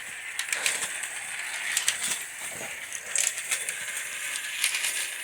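Antique live-steam toy locomotive running on its track: a steady hiss of steam under irregular clicking and rattling from the wheels and running gear.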